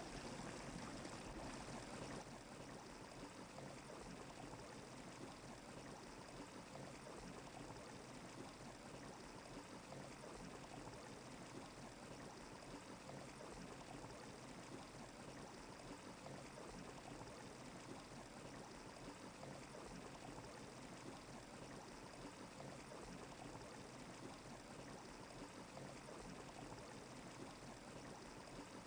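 Near silence: a faint, steady hiss with no distinct events, dropping slightly about two seconds in.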